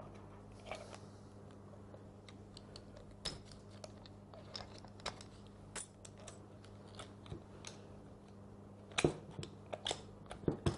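Scattered small metallic clicks and ticks as a C-shaped circlip is worked off the tool-holder shaft of a Bosch GSH 5 demolition hammer, with a louder cluster of clicks near the end as the ring comes free. A faint steady hum lies underneath.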